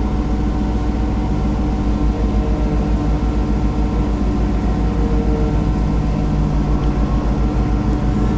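Muscle car's engine running at a steady speed on the road, with a low, rapid throbbing underneath from about two seconds in.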